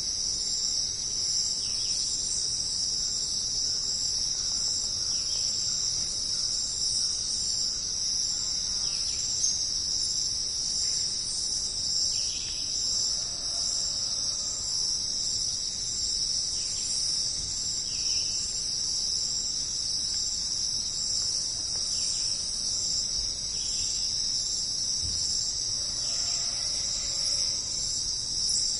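Steady, high-pitched chorus of jungle insects, with a few faint short chirps from other animals now and then.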